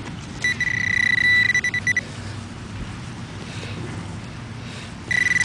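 Fisher CZ metal detector sounding its high target tone, with short beeps, then a steady tone held for about a second and a half, and another tone near the end: a strong, repeatable signal over a buried metal target.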